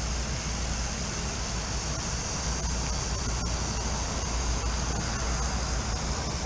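Garden hose spraying water through a dirty condensing unit's coil: a steady hiss over a steady low rumble.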